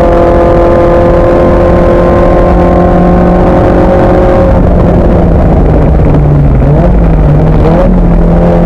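Racing car engine under power in a circuit race, its revs held steady for the first half, then changing, with two short rising sweeps of revs near the end before it settles at a new steady pitch.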